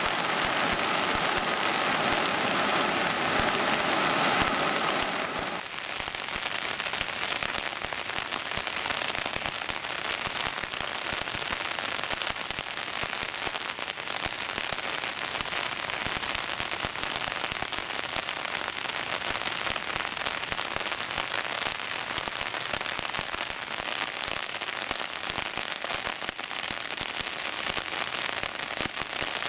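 Steady rain pattering, heard as a dense run of fine drop-ticks. For about the first five seconds a louder, fuller rushing noise lies over it and then cuts off suddenly, leaving the rain alone.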